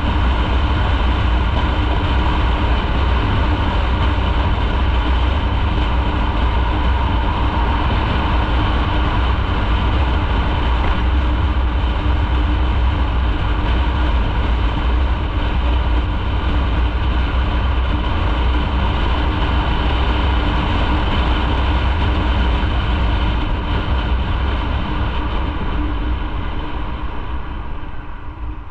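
Motorcycle riding at a steady speed: engine and road noise under a heavy wind rumble on the microphone, easing off and getting quieter near the end.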